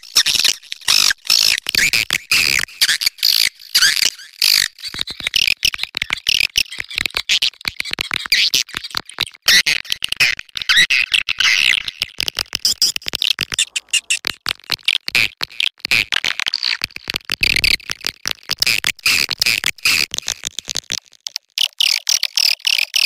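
Swiftlet calls: a dense, continuous chatter of rapid clicks and high twittering chirps, a swiftlet 'mating call' recording of the kind played to call swiftlets in.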